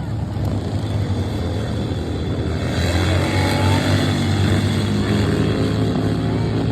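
Vintage racing engine running, growing louder about three seconds in, with its pitch rising briefly as it accelerates.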